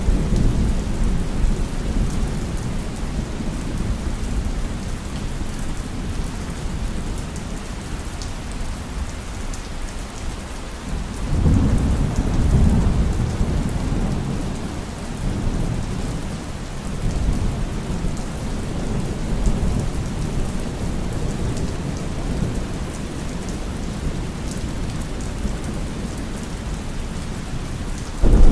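Heavy rain falling steadily, with deep rolls of thunder. One roll dies away in the first few seconds, another swells about eleven seconds in and eases off over several seconds, and a louder one breaks right at the end.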